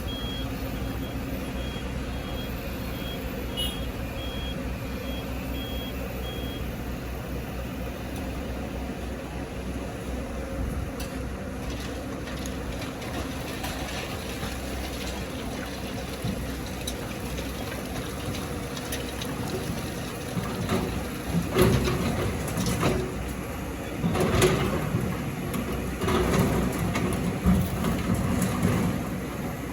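Heavy diesel machinery running steadily, with a reversing alarm beeping for the first several seconds. From about twenty seconds in come repeated loud, irregular crunches and scrapes of rock and sand being dug or tumbling.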